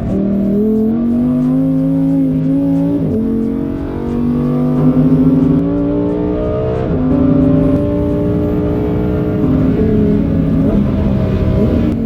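Lamborghini Huracán's V10 engine heard from inside the cabin under hard acceleration, its pitch climbing, dropping suddenly about three seconds in at an upshift and climbing again, then stepping down through the second half as the car slows.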